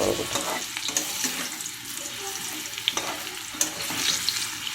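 Potato pieces frying in hot oil in a pan: a steady sizzle, with a couple of sharp clicks from a spatula stirring them about three seconds in.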